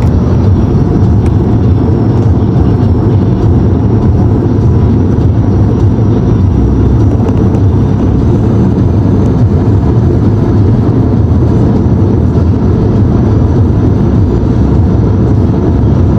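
A car driving at road speed: a steady low rumble of engine and road noise.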